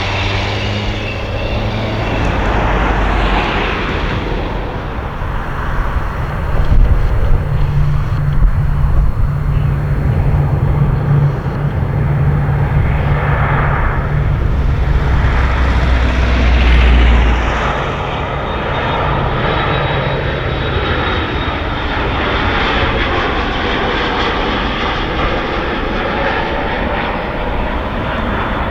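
An airplane's engines passing close by: a loud steady rush with low engine tones, loudest from about a quarter of the way in to just past the middle, then easing off into a slowly sweeping rush as it moves away.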